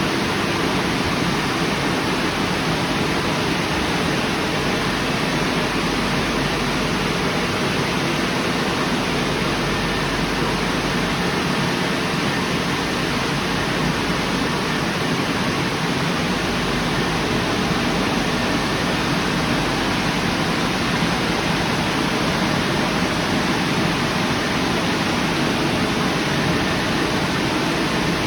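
Istobal Restyle car wash machine running: a steady, even rush of noise with no breaks.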